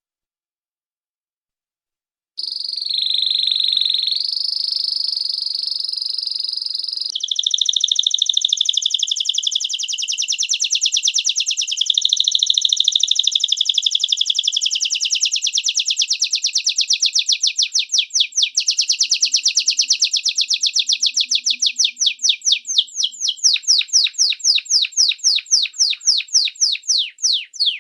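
A small bird singing: after a couple of seconds of silence, a high held whistle, then a long, very fast trill whose notes spread out into separate quick chirps toward the end.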